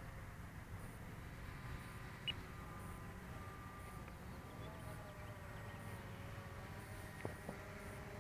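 Faint whine of a distant radio-controlled aircraft's electric motor, a thin tone that drifts slightly in pitch, over a low rumble, with two small clicks.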